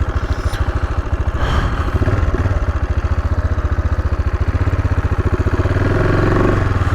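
Single-cylinder AJP PR7 dual-sport motorcycle running at low speed, its exhaust pulses steady. The engine note picks up briefly near the end.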